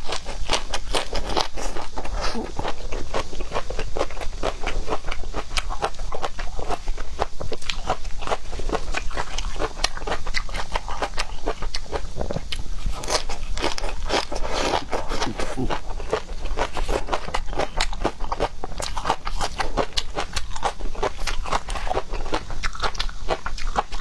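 Close-up chewing and biting of seafood, a dense, steady run of crackling, crunching clicks.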